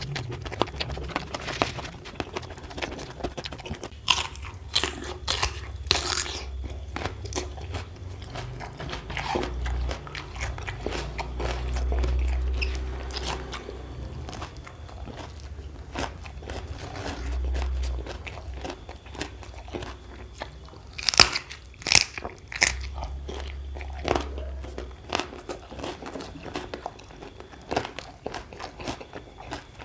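A person biting into and chewing crunchy food close to the microphone, with irregular sharp crunches between softer chewing. The loudest crunches come as a pair about two-thirds of the way through.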